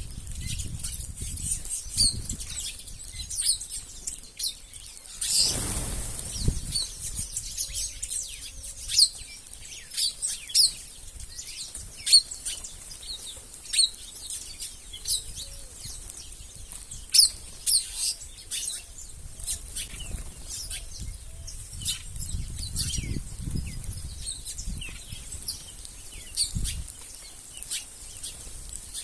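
A flock of wild birds at a feeding spot: many short high chirps and repeated wing flutters as birds land and take off, with a larger flurry of wings about five seconds in.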